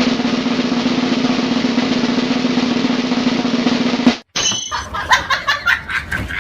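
A snare drum roll held steadily for about four seconds and cut off suddenly, followed by a few seconds of rhythmic music.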